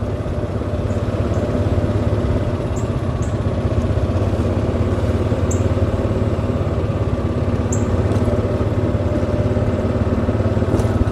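Golf cart driving along, its motor giving a steady, even drone.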